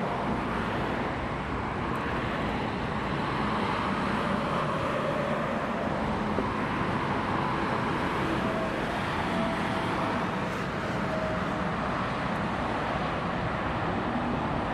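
Steady motorway traffic noise: vehicles running past with an even rush of road noise and a faint engine hum.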